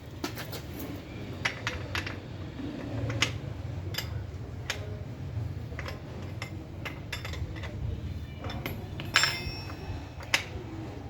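Small metal tools and bicycle parts clinking and tapping during hands-on bicycle assembly, irregular light clicks, with one louder metallic clank that rings briefly about nine seconds in.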